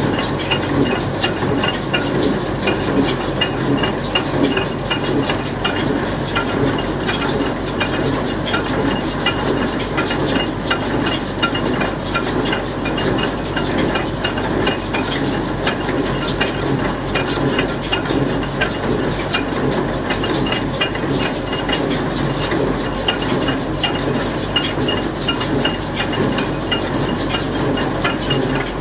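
Steyr 1400a tractor running steadily, driving a Welger AP12 round baler, with a constant engine drone under a continuous fast mechanical clatter.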